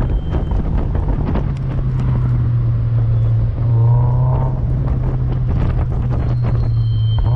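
Mazda MX-5 NC1's 2.0-litre four-cylinder engine running steadily at high revs under load, heard from the open cockpit with wind buffeting the microphone. A brief squeal about four seconds in.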